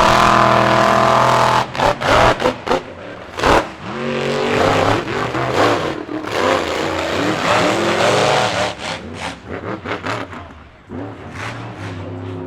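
Monster truck engines revving hard, their pitch climbing and dropping again and again as the trucks race, with a few sharp bangs a couple of seconds in.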